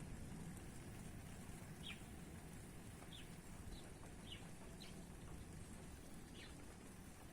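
A bird chirping faintly, about six short calls that fall in pitch, spaced irregularly, over a low steady background hum.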